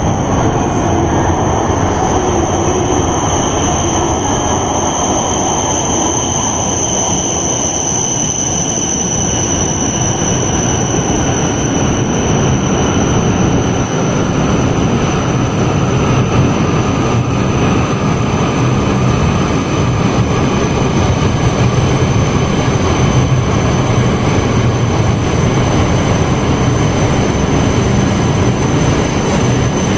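Shinkansen train running, a loud steady rumble with a high, steady whine over it. A second, lower whine fades out about twelve seconds in.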